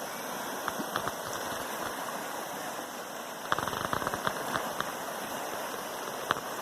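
River in flood after rain, its water rushing with a steady hiss. A run of light clicks comes in about three and a half seconds in.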